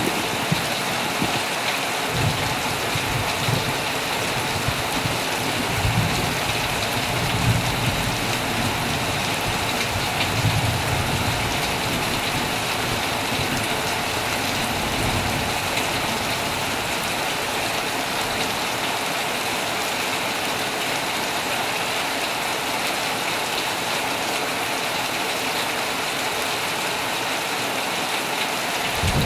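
Heavy rain falling steadily on a tent. A low rumble of thunder swells and fades in the first ten seconds or so.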